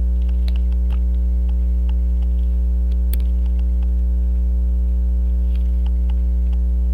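Loud steady electrical mains hum with a ladder of overtones, with scattered faint clicks of small metal tools on the watch movement, one sharper click about three seconds in.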